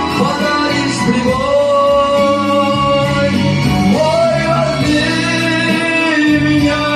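A voice singing long, held notes that bend in pitch, over instrumental backing music.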